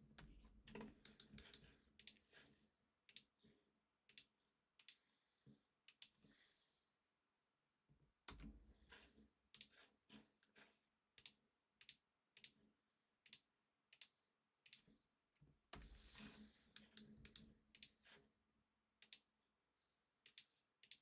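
Faint, irregular clicks of a computer mouse and keyboard being worked, with a few dull low bumps near the start, about 8 seconds in and about 16 seconds in.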